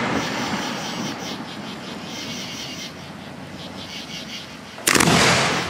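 Aerial firework shell bursting with a sharp boom about five seconds in, after the fading rumble of the previous burst. Between the bursts, night insects chirp in a steady pulsing chorus.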